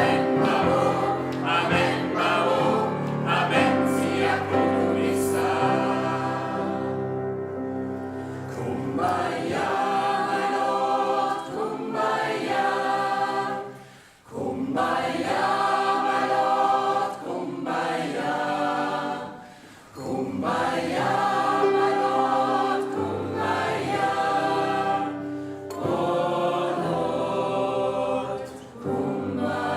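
Gospel choir singing in phrases, with short breaks about 14 and 20 seconds in.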